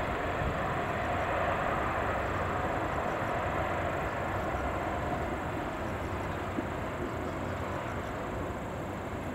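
Kintetsu 21000 series Urban Liner electric train passing on an elevated line: a steady rumble of wheels on rail that slowly eases off.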